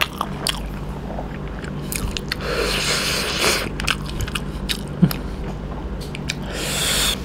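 Close-mic chewing and biting of fried chicken innards, with many small wet clicks. Wet squishing and scraping follow as rice and broth are mixed by hand.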